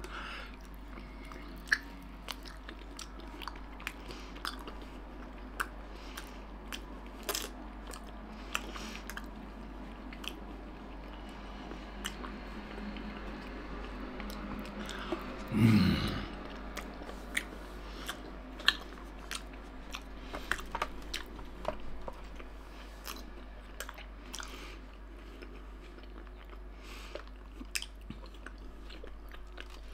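A person chewing pork belly slices: irregular smacks and clicks of the mouth, with one louder mouth sound about sixteen seconds in.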